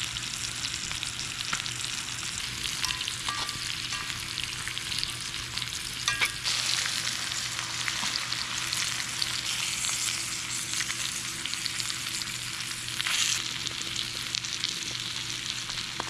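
Trout and vegetables sizzling in oil in a cast-iron pan over a fire: a steady crackling sizzle with scattered sharper pops.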